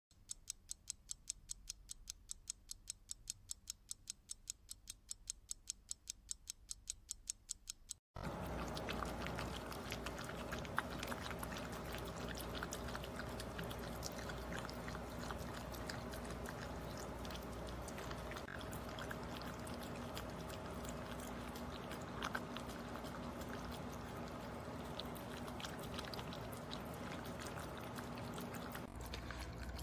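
Even, rapid ticking at about five ticks a second, cut off suddenly about eight seconds in. Then a dog eating cooked wet food close up: steady chewing and lapping with many small clicks.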